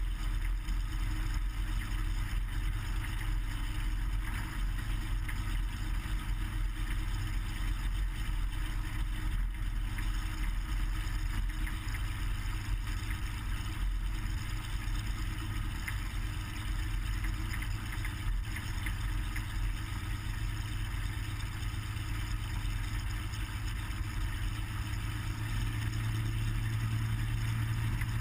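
Cessna 180's Continental O-470 flat-six engine and propeller running steadily, a low drone that grows a little stronger near the end.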